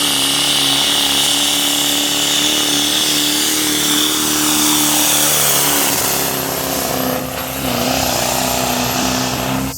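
Diesel pickup engine running hard at high revs under load in a truck pull, with a steady high-pitched whine over the engine note. The note sags briefly about seven seconds in and recovers before the sound cuts off.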